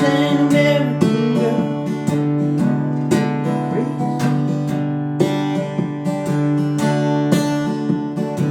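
Acoustic guitar strumming chords in a steady rhythm, the player restarting the intro of a song.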